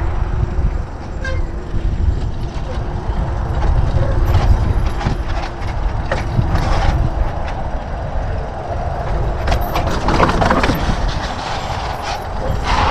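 Mountain bike rolling down a rough dirt trail: a steady low rumble of wind on the action camera's microphone and tyres on loose dirt, with the bike clattering over bumps, heaviest about ten seconds in.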